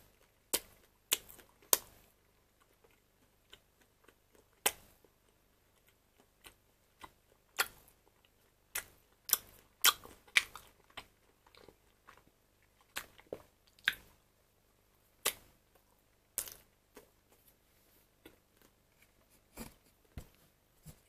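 Close-up chewing of a bite of cheese-filled wiener sausage: irregular sharp mouth clicks and smacks with short pauses between.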